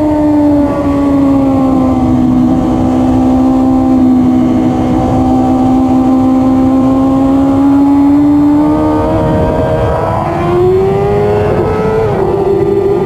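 Suzuki GSX-R1000R L7's 999 cc inline-four engine running at track pace with a rough rush of wind and road noise. The note dips slightly about a second in, holds steady for several seconds, then rises from about nine seconds, wavers briefly, and steps in pitch near the end.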